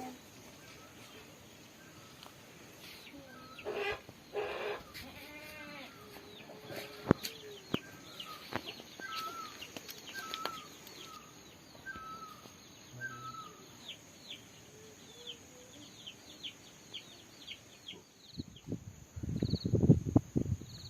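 Farm animal calls, two loud ones about four seconds in, amid many small birds chirping in quick repeated notes and a steady high insect drone. A louder, rough low noise starts near the end.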